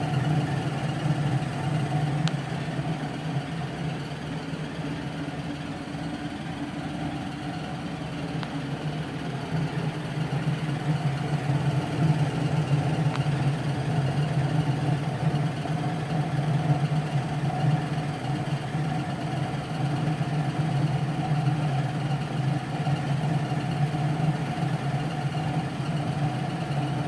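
Gas furnace running with its burners lit: a steady mechanical hum with a continuous squeal over it, the squeal that sets in after the burners have run for about a minute and dies away a few seconds after they shut off.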